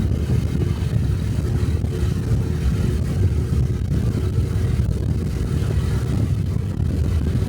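Small 125 cc single-cylinder Honda Cub motorcycle engine running at a steady cruise while riding, mixed with heavy wind rumble on the body-worn microphone.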